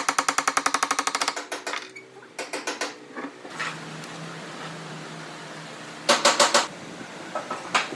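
Rapid mechanical tapping, about ten sharp taps a second, for the first second or so. Scattered knocks and clatter follow over a faint steady hum, then a short loud burst of taps about six seconds in.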